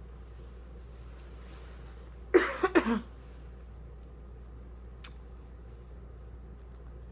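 A person coughing about four times in quick succession, over a steady low hum; a single sharp click follows a couple of seconds later.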